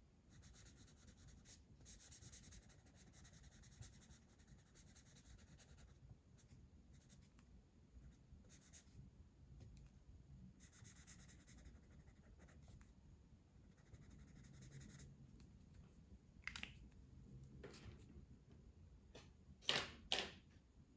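Faint scratching of a colouring tool stroking back and forth across paper, in several stretches, followed near the end by a few sharp clicks or taps, the loudest two coming close together.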